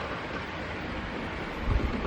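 Tobu Isesaki Line train running past a level crossing: a steady rolling rush of wheels and running gear, with a short low thump near the end.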